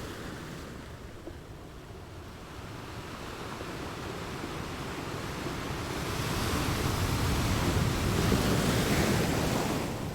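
Ocean waves on a shore: a wave swells and breaks near the end as a loud, steady rush, then falls back. Wind on the microphone runs underneath.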